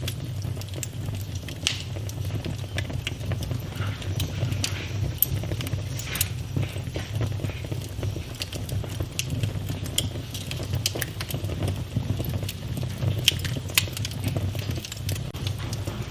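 Wood fire burning in a fireplace: a steady low rumble of flames with irregular crackles and occasional sharper pops.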